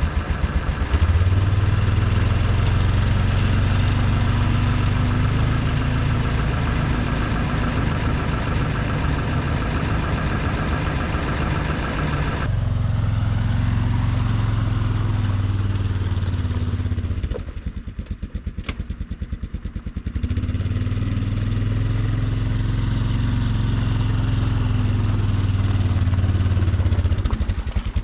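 A small vehicle engine running steadily, easing off for about three seconds about two-thirds of the way in and then picking up again.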